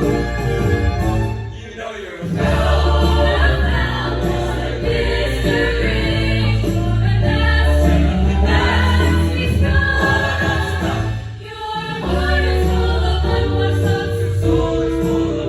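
A school choir singing with instrumental accompaniment and a strong bass line, with two brief breaks between phrases.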